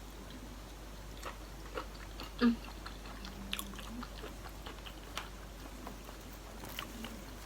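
A person chewing and biting food close to the microphone: scattered small clicks and smacks of the mouth, with one louder one about two and a half seconds in.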